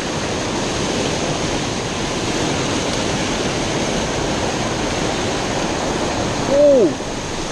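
Water rushing steadily over a small creek waterfall, a constant even hiss close to the microphone.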